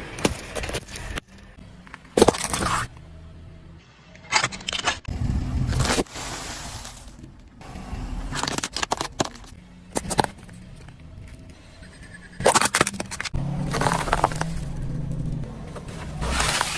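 Objects crushed under a car's tyres: a run of crunches, cracks and breaking sounds, some short and some drawn out, with the car's low engine hum under several of them.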